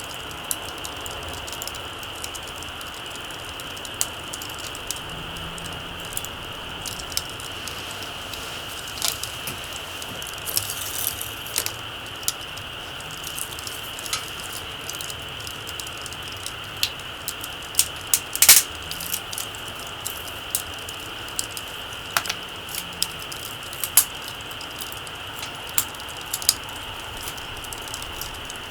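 Small wood campfire crackling, with irregular sharp pops and snaps, one louder pop past the middle, over a steady high hiss.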